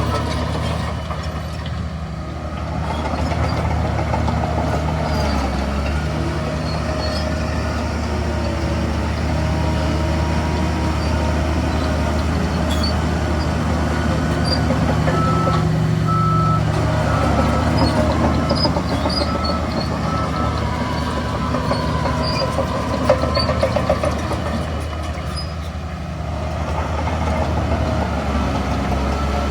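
Heavy diesel engines of a bulldozer and dump trucks working, the engine note swelling and easing with load. A reversing alarm beeps repeatedly through the middle stretch.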